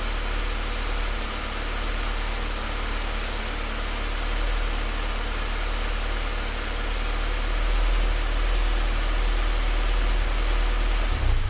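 Car engine idling roughly with a steady low rumble: the rough idle points to a running problem.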